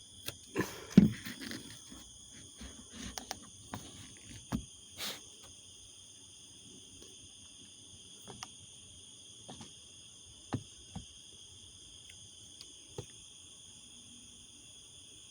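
Steady high-pitched insect chorus, with a cluster of knocks and clicks in the first few seconds, the loudest about a second in, and a few single knocks later.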